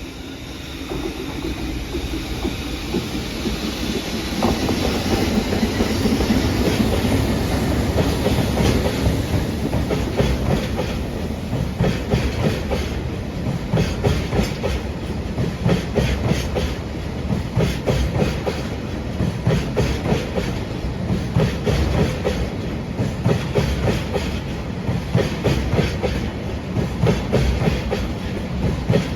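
Freight train of tank wagons hauled by an EF65 electric locomotive passing close by, its wheels clattering over the rail joints in a long run of clicks. The sound swells over the first several seconds as the train draws near, then holds loud as the wagons roll past.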